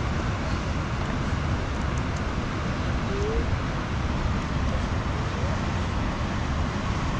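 A steady, unbroken rushing noise with a brief faint rising chirp about three seconds in.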